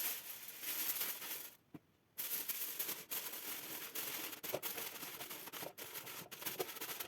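Rustling and light scraping from handling baking things in a kitchen, with a few small knocks. The sound drops out briefly about a second and a half in.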